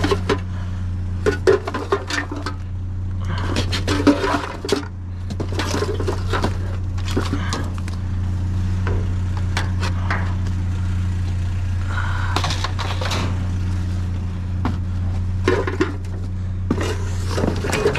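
Junk being rummaged through in a dumpster: scattered clinks, knocks and clatters of hard items being moved, over a steady low hum.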